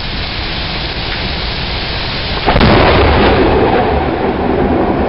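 Heavy rain falling steadily, then about halfway through a close clap of thunder hits suddenly and rumbles on, slowly easing.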